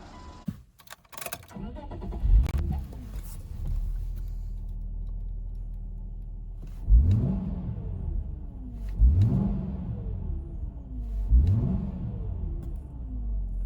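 Subaru Legacy 3.0R's flat-six with an aftermarket Wangan muffler and Kakimoto mid-pipe starting up about two seconds in with a brief flare, settling to idle. It is then revved three times, each rev rising sharply and falling back to idle.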